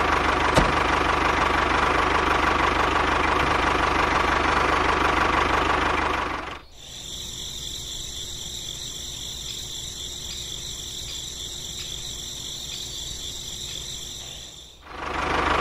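A tractor engine running steadily. It cuts off suddenly about six and a half seconds in, leaving a much quieter, steady high-pitched drone, and the engine sound comes back just before the end.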